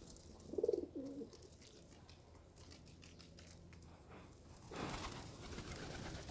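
A pigeon cooing once, briefly, about half a second in. A rustling noise follows near the end.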